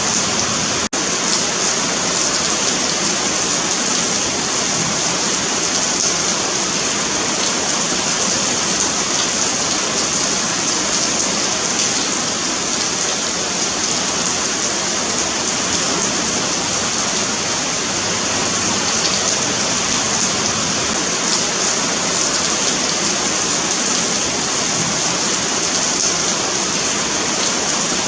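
Steady rain falling on a pavement, a continuous even hiss of drops. It cuts out for a split second about a second in.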